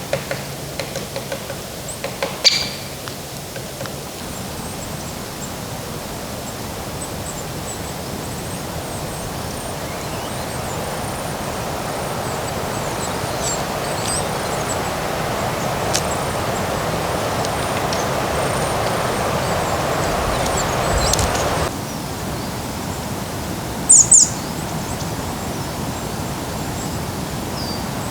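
Small birds giving scattered high, thin chirps over a steady rushing background noise. The noise slowly swells, then cuts off suddenly about three-quarters of the way through. A sharp double chirp stands out soon after.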